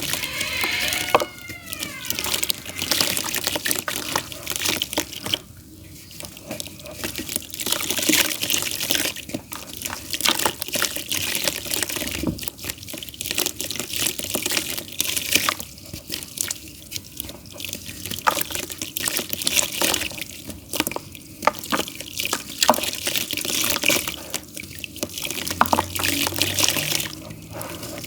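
Damp pure clay crumbling: a continuous run of small wet crackles and clicks.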